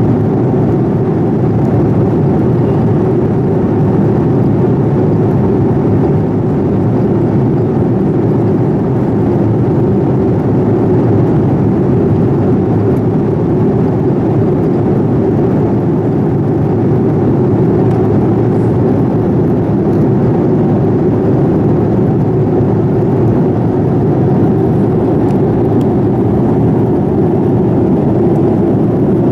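Steady cabin noise inside a Boeing 787-9 airliner: the even rush of the engines and airflow, unchanging throughout.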